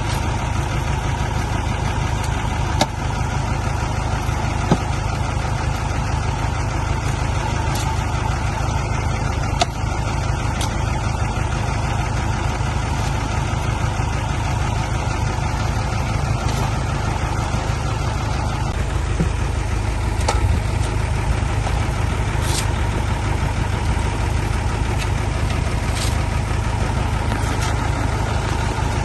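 Heavy vehicle engine running steadily, with a few short clicks or knocks over it.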